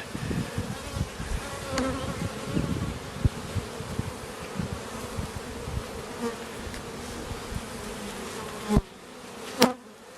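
Honeybees buzzing around an open hive, a steady drone of many bees. Two sharp knocks near the end stand out above the buzzing.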